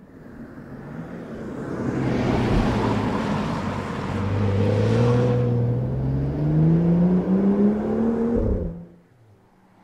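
BMW 435i Gran Coupé's turbocharged straight-six accelerating hard, its note climbing steadily in pitch as it pulls up through the revs over tyre and road noise. The sound cuts off abruptly about nine seconds in.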